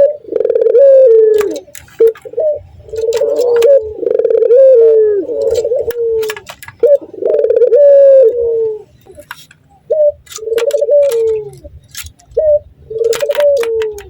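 Male puter (Barbary dove) giving repeated courtship coos at a female. Each coo is a falling call of about a second, following one another with short breaks and a longer pause about nine seconds in.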